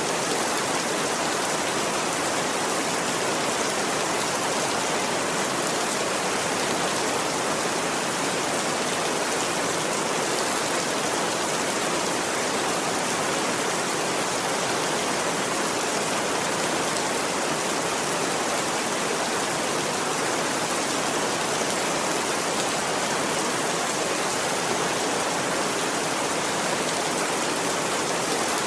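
Steady, dense rainfall: an even, unbroken hiss of rain.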